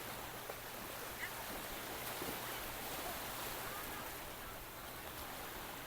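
Steady hiss of beach ambience, sea surf and wind, with a few faint short high chirps.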